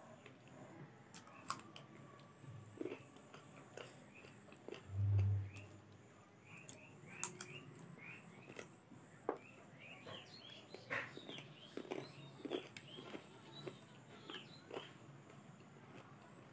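Close-miked eating by hand: chewing and wet mouth clicks on mouthfuls of chicken curry and rice, with fingers gathering food from the plate near the end. A single low thump about five seconds in is the loudest sound.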